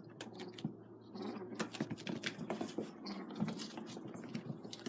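Two kittens scuffling in play-fight: a quiet, quick, irregular patter of paws and clicking claws.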